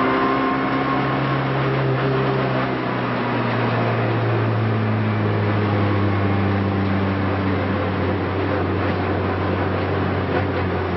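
Renault Clio race car's engine running hard at speed, heard from inside the cabin. Its note breaks briefly at the start, then sinks slowly over the following seconds.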